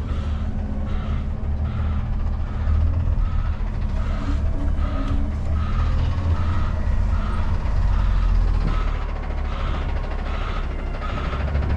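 Semi truck's backup alarm beeping steadily, about one beep every 0.7 seconds, over the low rumble of the tractor's natural-gas engine as the rig backs up.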